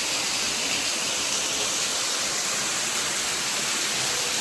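Steady rushing hiss of a waterfall, with wind moving through the cave behind it.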